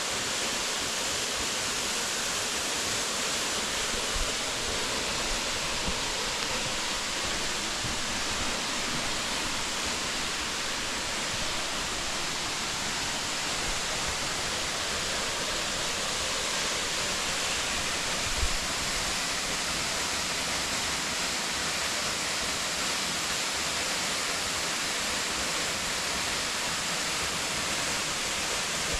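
Waterfall, a steady, even rush of falling water. A few short low thumps come about four seconds in and again past eighteen seconds.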